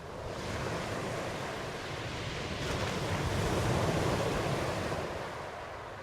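Ocean waves washing onto a shore: a swell of surf rushes in at the start, builds to its loudest about four seconds in, then eases off.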